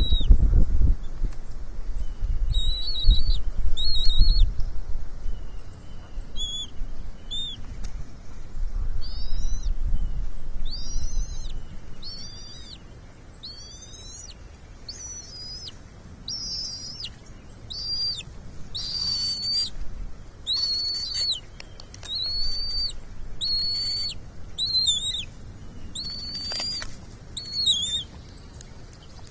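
Bald eagle calling: a run of short, high-pitched piping notes, roughly one a second, some rising and some falling. A low rumble of wind on the microphone sits under the first ten seconds.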